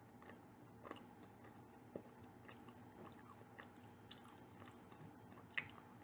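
Faint close-up chewing of a soft bakery pastry or bun, with scattered small mouth clicks; the sharpest click comes near the end.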